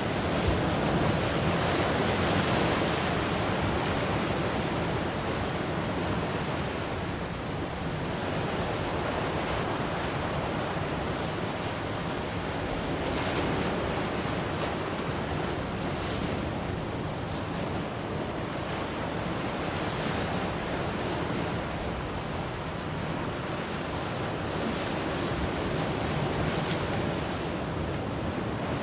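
Ocean waves breaking and washing on the shore in a continuous surf, swelling and easing every few seconds, with some wind.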